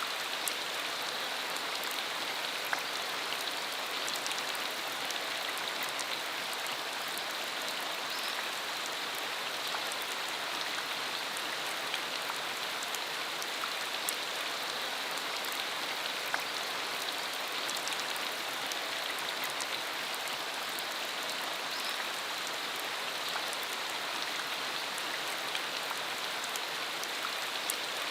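Rain shower falling steadily on a rural road: a dense, even hiss of rain peppered with many small drop ticks.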